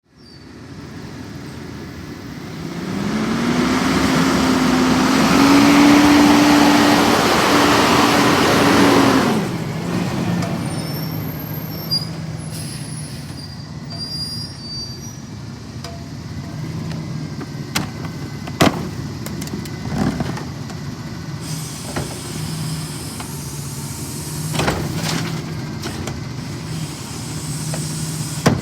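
Autocar ACX CNG rear-loader garbage truck's engine speeding up from idle and holding a higher, steady pitch for about six seconds under a loud rushing noise, then dropping back to idle. Several sharp knocks follow while it idles.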